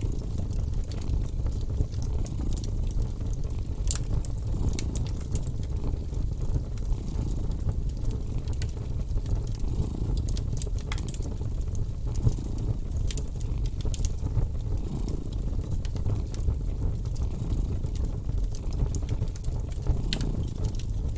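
A cat purring, a continuous low rumble, with scattered sharp crackles from a wood fire.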